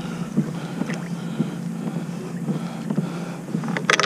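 Trotline being worked from a kayak on the water: a steady low hum with small knocks and wind on the microphone, and a loud fast rattle starting just before the end.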